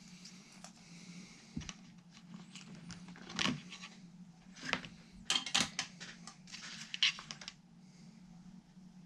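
Small hand-handling sounds of guitar assembly: sharp metallic clicks and brief rustles and scrapes of tools and parts being picked up and set down, a cluster of them in the middle, over a steady low hum.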